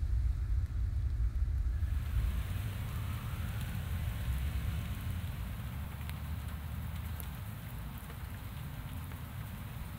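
Steady rain falling, hissing with scattered drop ticks on wet leaves and a puddle, growing clearer about two seconds in. A low rumble underneath is strong at the start and fades away.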